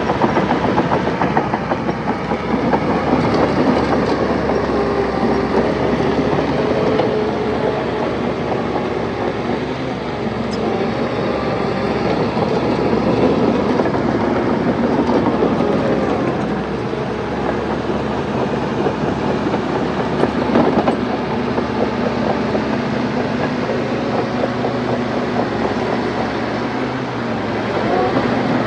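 Bulldozer running with its diesel engine working steadily and its steel tracks clattering continuously as it pushes soil.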